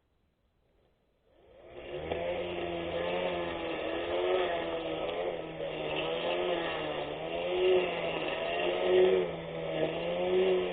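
24V brushless electric lawn mower motor spinning up about a second in, then running with a steady whine whose pitch wavers up and down.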